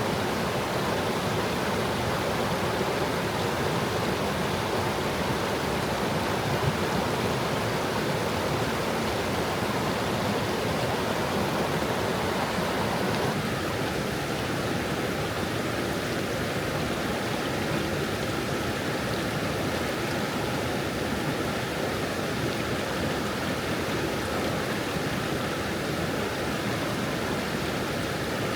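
A forest stream, its water babbling over stones in a steady, even rush; the sound shifts slightly in tone about halfway through.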